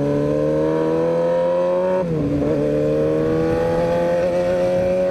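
Motorcycle engine pulling under acceleration, its pitch rising steadily, dropping at an upshift about two seconds in and then climbing again through the next gear.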